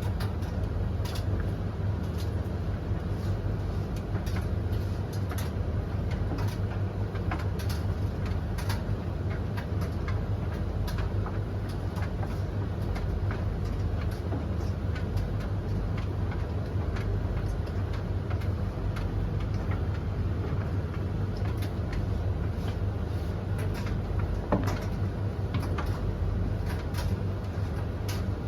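Three tumble dryers (Blomberg LTK310030W, Russell Hobbs RH3VTD800 and Hoover HLEC8TRGR-80) running together mid-cycle: a steady low drone of turning drums and fans, with scattered light clicks and knocks as the laundry tumbles.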